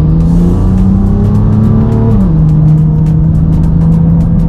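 BMW M2 F87's turbocharged 3.0-litre N55 straight-six running through its aftermarket iPE exhaust while driving. The engine note climbs slowly, drops sharply a little over two seconds in, then holds steady.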